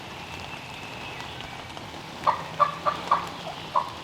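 A run of turkey yelps, evenly spaced at about three a second, starting a little past two seconds in, over the faint hiss of light rain.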